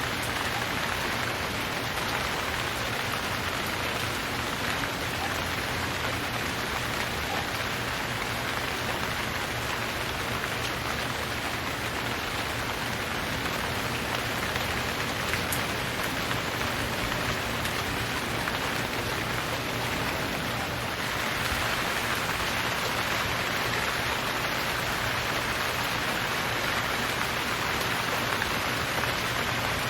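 Steady rain falling, an even hiss of many drops with no thunder, getting a little louder after about twenty seconds.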